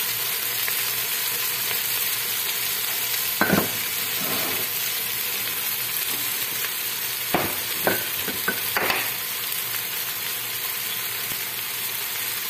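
Chopped onions and green chillies frying in oil in an aluminium pot with a steady sizzle. A spoon stirring knocks and scrapes against the pot a few times, once around the middle and in a short cluster later on.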